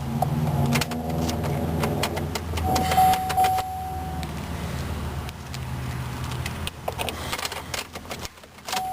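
Car keys jangling and clicking at the ignition of a 2008 Chevrolet Cobalt, over a low steady hum. A steady electronic warning beep sounds for about a second and a half about three seconds in and starts again at the very end.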